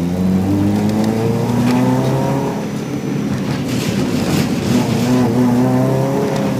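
Rally-prepared Subaru Impreza's naturally aspirated 2.5-litre engine, heard from inside the car, revving hard under acceleration, easing off about halfway, then climbing in pitch again.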